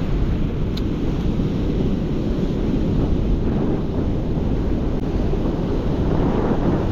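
Strong wind buffeting the microphone over the steady wash of rough surf breaking on the beach.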